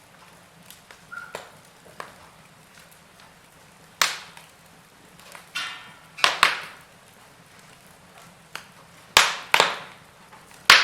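Log fire crackling, with sharp pops of the burning wood: one loud snap about four seconds in, two close together around six seconds after a brief hiss, and three more near the end, with fainter ticks between them.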